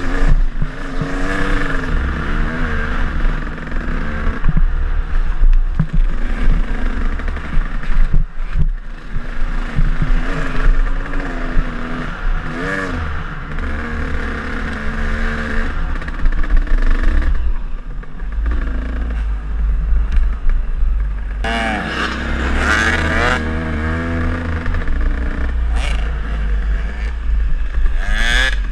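KTM enduro dirt bike engine being ridden hard on a trail, revs rising and falling again and again as the throttle is opened and closed, with sharp revving near the middle and end. A steady low rumble of wind on the camera microphone runs underneath.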